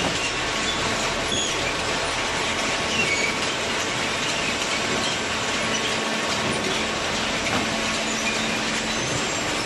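Automatic hydraulic waste-paper baler running: a steady machinery noise with a faint hum and a few short, high squeaks.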